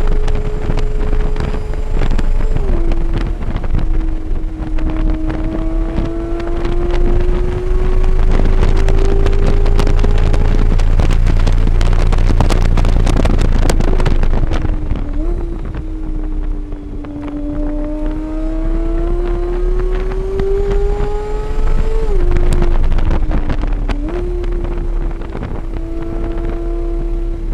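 A car's engine at speed on a race track, heard onboard. Its note climbs steadily under acceleration, drops abruptly at upshifts and jumps up at downshifts, with heavy wind rush over the microphone in the middle stretch.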